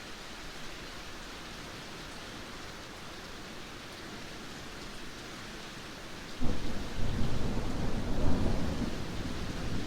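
Steady heavy rain hissing, then about six seconds in a loud low rumble of thunder breaks in suddenly and keeps rolling.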